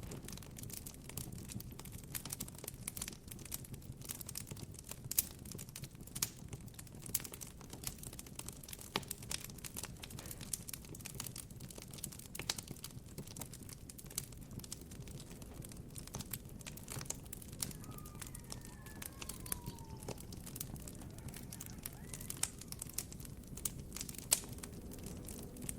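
Wood campfire crackling, with frequent small sharp pops over a low steady rumble of the burning fire. A faint falling whistle-like tone sounds briefly about eighteen to twenty seconds in.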